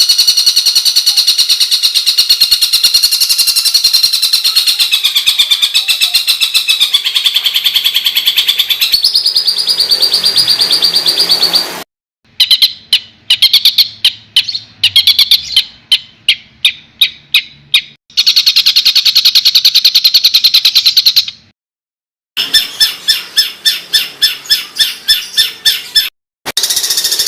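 A songbird's harsh, rapid-fire song ('tembakan kasar'), used as training audio for competition birds. A dense, buzzy rattling trill runs for about twelve seconds, then gives way to strings of quick, sharp repeated notes, several a second. The song is broken by a few abrupt short silences.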